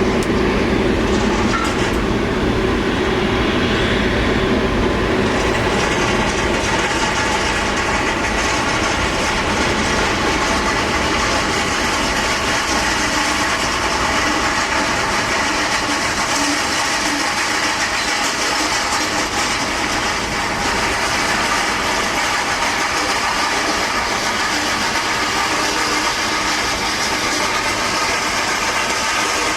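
Jet airliner engines running, a loud steady roar with several held whining tones; the higher hiss fills in after about six seconds.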